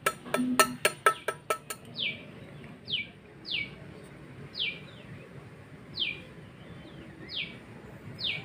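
A bird calling a short, high, falling note over and over, about once a second. A quick run of sharp clicks comes at the start.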